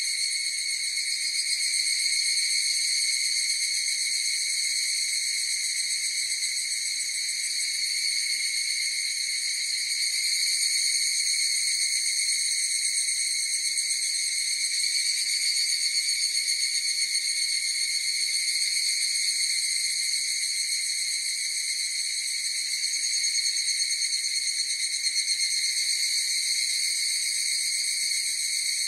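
A chorus of higurashi (evening cicadas) singing without a break: a steady, high-pitched ringing drone that swells slightly now and then.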